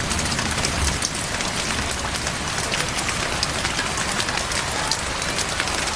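Heavy rain pouring steadily, with a dense patter of drops on surfaces close by.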